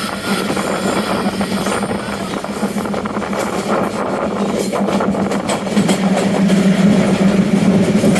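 Train running, a steady rumble of noise with a constant low hum that grows louder about six seconds in.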